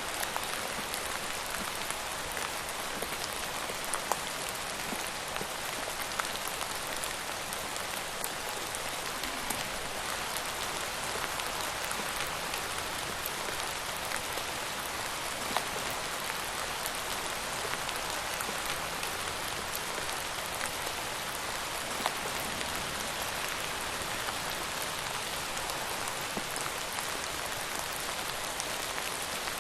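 Steady rain falling on a surface, a continuous even hiss with an occasional louder single drop hit standing out.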